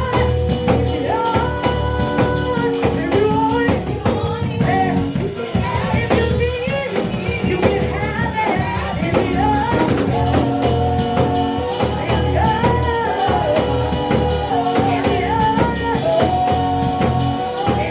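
Live gospel praise music: drums, long held instrument chords and voices singing and calling out over them, without a break.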